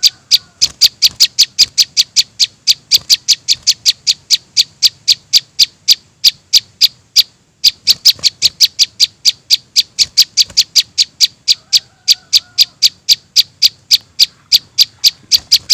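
Young prinia (prenjak) calls used as a bird lure: a fast, even string of short, sharp, high chirps, about five a second, with one brief pause about seven seconds in. A fainter, lower bird call comes in twice, briefly.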